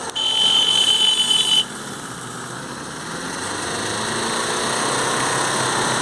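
Tata Manza engine being revved, building slowly over the last few seconds. A loud, steady high whine sounds for about the first second and a half, then stops suddenly. The engine is reported to give black smoke and lack pickup, which is put down to carbon build-up.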